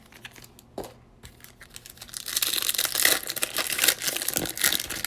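A baseball card pack's wrapper being torn open and crinkled, in a dense crackle of about three seconds that starts about two seconds in.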